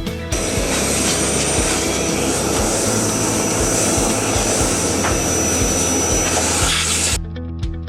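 A power tool motor running steadily with a high whine, starting just after the start and cutting off about a second before the end, over background music.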